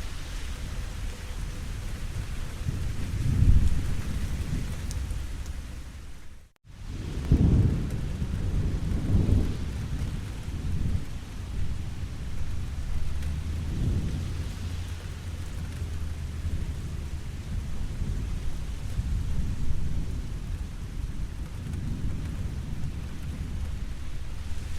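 Rain falling steadily, with low thunder rumbles swelling several times, the strongest about three and a half and seven and a half seconds in. The sound drops out briefly about six and a half seconds in.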